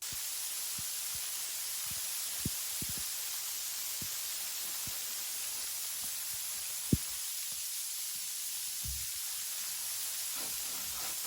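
Steady hiss with a few scattered soft knocks, the sharpest about seven seconds in.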